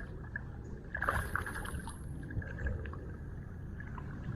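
Water and wind noise around a fishing kayak: a steady low rumble with a louder splash about a second in and a scatter of light clicks and knocks.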